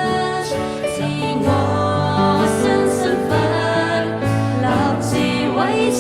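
Live worship pop band playing an instrumental interlude: held bass notes stepping to a new pitch about every second under sustained chords, with a rising glide near the end.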